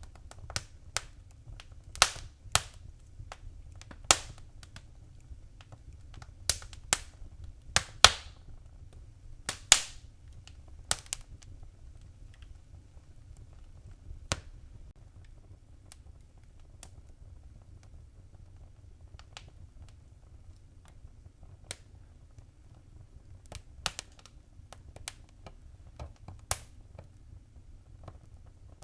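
Wood fire crackling in a fireplace: sharp, irregular pops and snaps, coming thick for the first twelve seconds or so and more sparsely after, over a low steady rumble.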